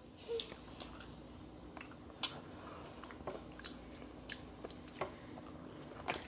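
Close-up eating sounds: quiet chewing with scattered soft mouth clicks and smacks at irregular intervals.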